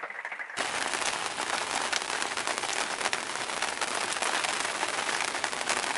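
Rain pattering steadily: a dense, even patter of drops on a surface, starting suddenly about half a second in.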